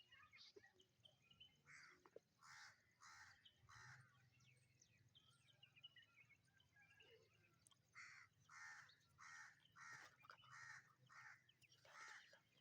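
Faint, harsh bird caws: a few about two seconds in, then a steady run of about nine, roughly two a second, from about eight seconds in.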